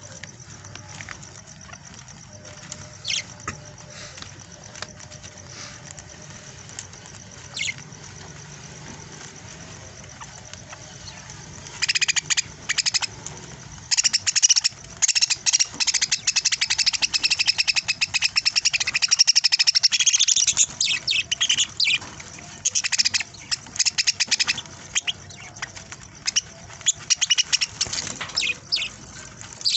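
Budgerigars chirping: a few single high chirps at first, then, about twelve seconds in, several birds break into loud, fast, continuous chattering.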